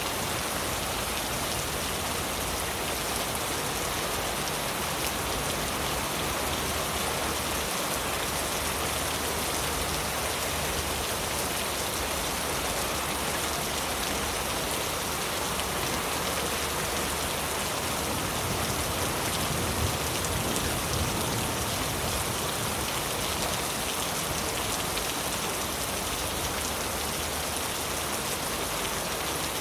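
Heavy rain falling steadily on leaves, a dense even patter of drops.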